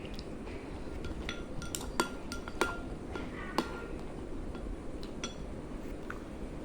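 Cutlery clinking against a dish while someone eats noodles: several sharp clinks with a short ring, the loudest about two and two and a half seconds in.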